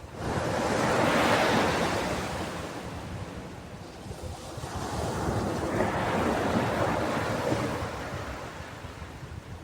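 Ocean waves washing onto a shore: two slow swells of surf, the first peaking about a second in and fading, the second building around the middle and ebbing near the end.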